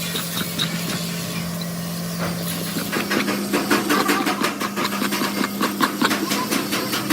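A motor-driven workshop machine running with a steady hum. About three seconds in the hum steps slightly higher and a rapid clatter of ticks and rattles starts up over it.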